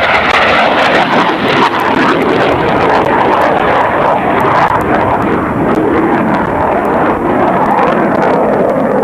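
Aircraft engine noise, loud and steady throughout, as a plane flies at an airshow.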